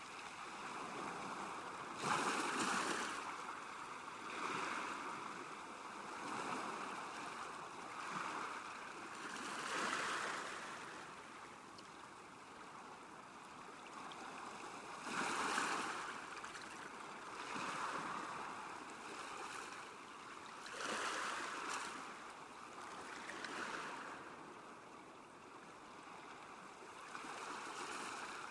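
Small waves lapping at a lakeshore, washing in and out in swells every two seconds or so, with a few louder splashes.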